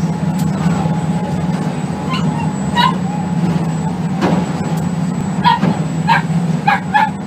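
A dog yipping in short, high bursts, twice and then four times in quick succession near the end, over the steady low hum of the boat's engine, with one dull thump near the middle.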